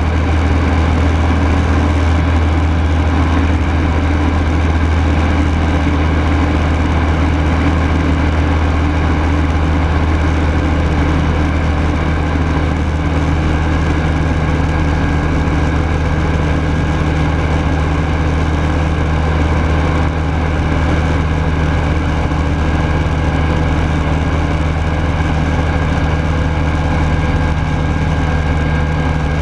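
Rotax 912S flat-four engine of a Rans Coyote S6 ultralight running steadily, heard from inside the cockpit, with a slight drop in level about twenty seconds in.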